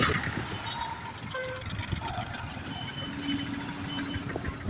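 Busy city street traffic: motor vehicles running past, with short horn toots and one longer held horn note in the second half.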